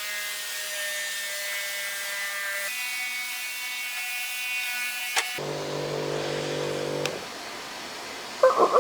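Battery-powered electric sprayer pump running with a steady whine while misting pre-spray. Its pitch jumps abruptly twice, and it stops about seven seconds in.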